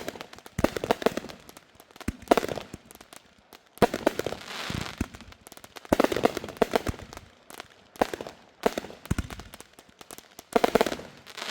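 Consumer fireworks going off in repeated volleys of sharp bangs and crackle, a new cluster about every one to two seconds.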